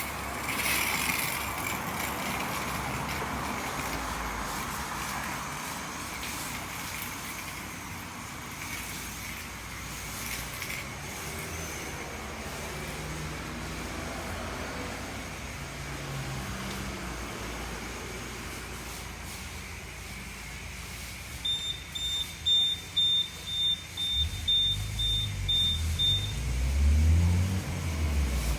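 High-pressure wash at a self-service car wash, spraying steadily. Later a run of about ten short high beeps, two a second, comes from the wash bay, and uneven low rumbling near the end is the loudest part.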